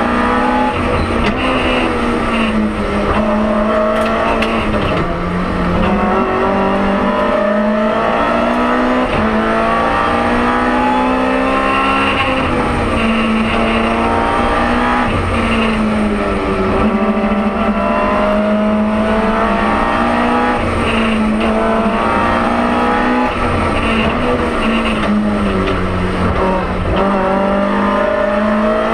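BMW M3 E30 Group A rally car's four-cylinder engine at full racing pace, heard from inside the cabin, its revs climbing and dropping again and again between corners.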